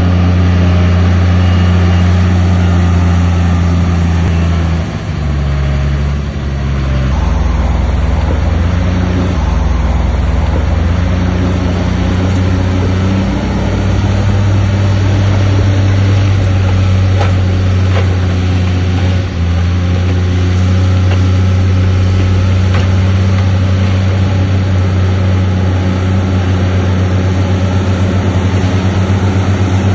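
Heavy diesel engine of a Shantui bulldozer running steadily at working revs. Its pitch drops about five seconds in and shifts again a couple of seconds later, then settles back up about halfway through.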